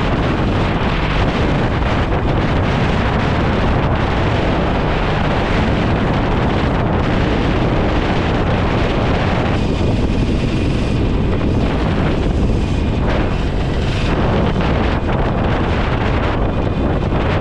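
Wind rushing over the microphone of a moving motorcycle, over steady engine and road noise. The wind eases briefly twice, about ten and twelve seconds in.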